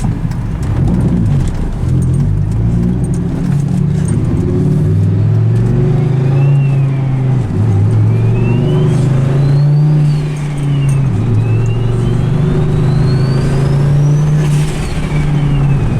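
Turbocharged Dodge Ram SRT-10's 8.3-litre Viper V10 accelerating hard with the hood off, its engine note climbing through the gears and dropping back at three upshifts. A high turbo whine rises with the revs in each gear and falls away at each shift.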